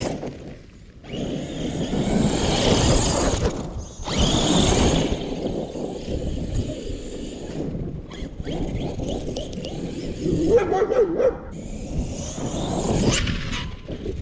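Traxxas Sledge brushless electric RC monster truck driving through snow: bursts of motor under throttle and tyres churning snow, several seconds long each. There is a wavering tone about ten seconds in.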